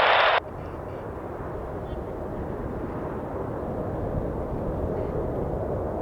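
Jet airliner rumble at an airport, a low steady roar that slowly grows louder. Just at the start an air traffic control transmission on a scanner radio cuts off.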